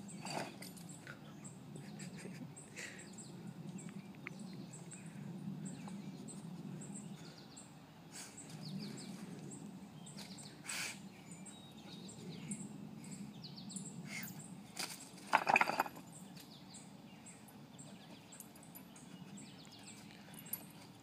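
Birds chirping in short scattered calls over a steady low hum, with one brief louder sound about fifteen seconds in.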